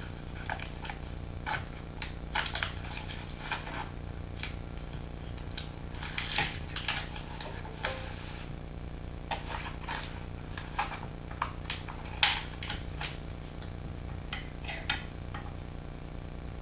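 Knife cutting slices from a stick of frozen butter: scattered, irregular clicks and short scrapes of the blade, with one louder knock about twelve seconds in.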